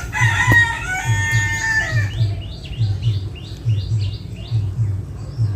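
A rooster crowing once for about two seconds, followed by a small bird's run of about eight quick repeated chirps. A low rhythmic throbbing runs underneath.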